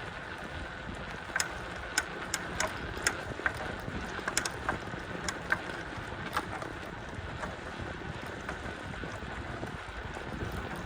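Riding a bicycle down a trail: steady wind buffeting the microphone and rolling tyre noise, broken by irregular sharp clicks and rattles.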